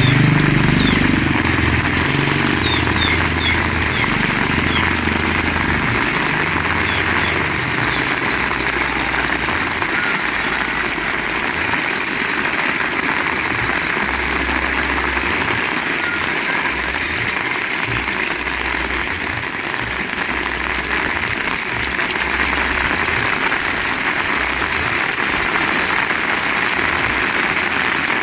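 Heavy rain falling in a steady, dense hiss, with irregular low rumbles of wind. A motor vehicle's engine, likely a motorcycle, fades away during the first few seconds.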